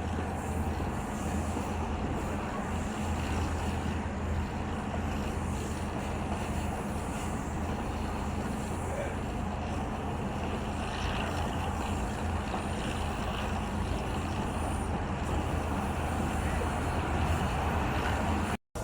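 Passenger train running with a steady low rumble and hum. The sound cuts out for an instant near the end.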